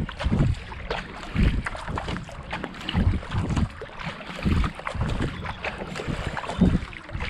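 Kayak paddle strokes: the blades dip and splash into the water in a steady rhythm, with wind buffeting the microphone.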